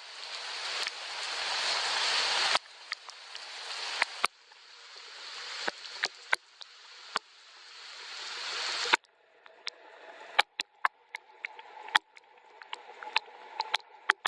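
Rain hiss with sharp drops pattering throughout. The hiss swells and cuts off suddenly three times, and after about nine seconds it falls away, leaving scattered drips.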